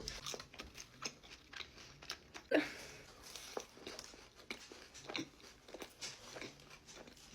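Close-miked mouth sounds of eating fried chicken and fries: chewing and biting with small crunches and wet clicks, and one louder crunch about two and a half seconds in.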